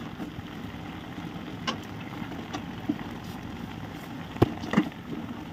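Bamboo shoots frying in oil in a wok, a steady sizzle, with a few sharp knocks of the wooden spatula against the pan, the loudest a little over halfway through.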